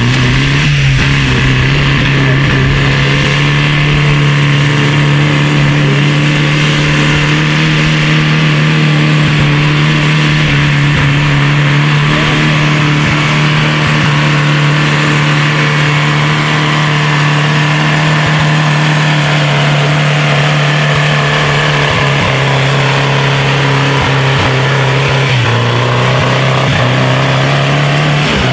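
Tractor engine running steadily at an even, nearly unchanging pitch.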